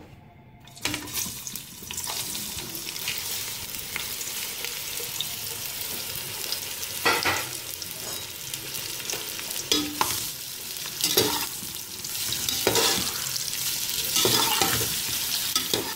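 Sliced bitter gourd (karela) sizzling in hot oil in an aluminium pot, the sizzle starting about a second in as the slices go into the oil. A spoon scrapes against the pot a few times as the slices are stirred.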